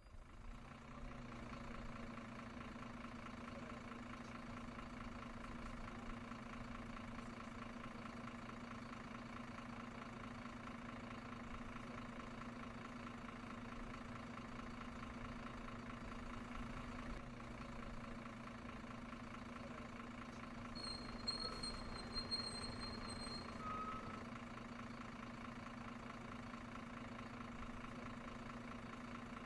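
Steady engine-like idling hum from a remote-control model vehicle. A high steady tone sounds for about three seconds about two-thirds of the way through.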